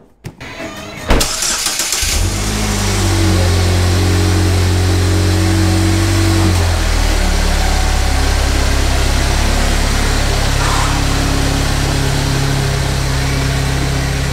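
GMC Terrain's engine starting about a second in, then running steadily as the SUV reverses slowly away. Its note drops a little about halfway through.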